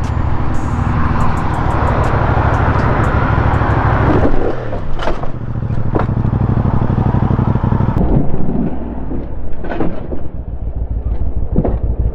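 Motorcycle engine running steadily with road and wind noise, its note dropping briefly about four seconds in, with a few short sharp knocks in the second half.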